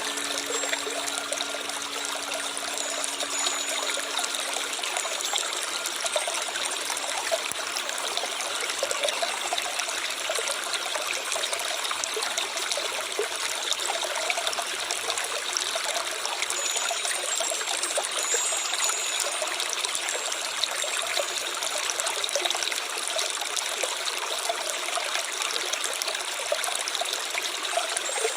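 Stream water flowing and trickling steadily over stones.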